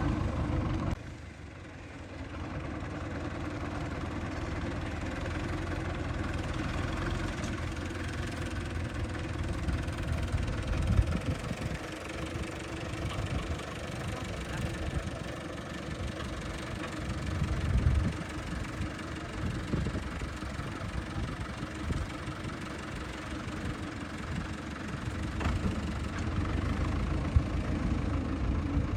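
Farm tractor's diesel engine running steadily, with a few louder surges in its low hum.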